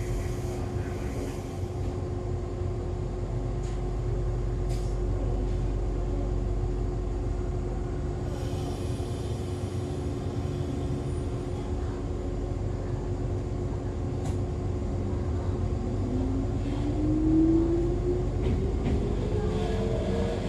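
Inside an Echizen Railway MC6101-series electric railcar: a steady rumble and hum from the car, with a hiss of air about halfway through. Near the end a rising whine comes in from the MT54 DC series-wound traction motors as the car picks up speed.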